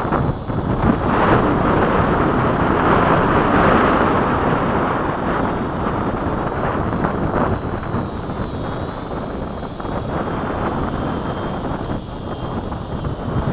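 Gusty wind buffeting the microphone, a loud steady rushing that swells strongest a few seconds in, with a faint steady high whine underneath.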